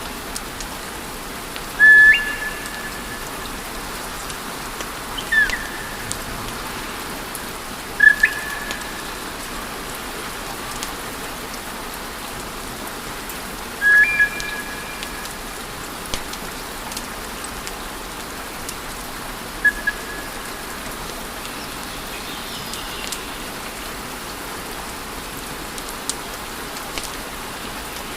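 Wood fire crackling and hissing steadily, with faint scattered pops. About five short whistling tones sound several seconds apart, each a quick upward slide into a brief held note.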